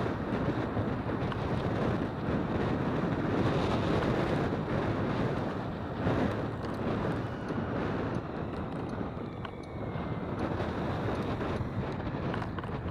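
A jet airliner passing low overhead: a broad roar that eases off after about eight seconds, with a faint falling whine near the end. Wind buffets the microphone throughout.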